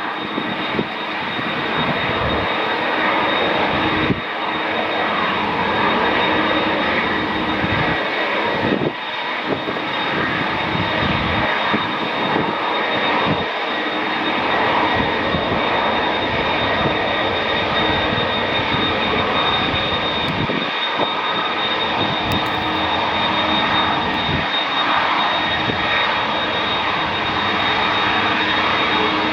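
Jet engines of an Airbus A330, GE CF6-80E1A4 turbofans, running steadily, with a constant high whine over the engine noise.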